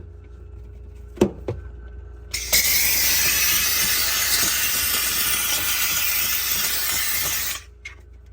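McCulloch steam cleaner blowing a jet of steam: a loud, steady hiss of about five seconds that starts and cuts off abruptly, preceded by two sharp clicks.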